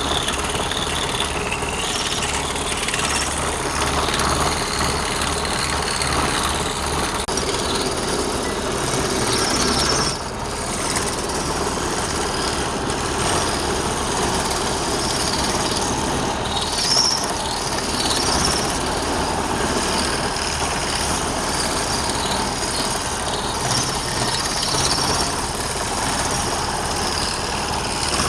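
Wood lathe running with a tool working the spinning wood. It makes a steady rough noise over a low hum, with brief high squeals now and then.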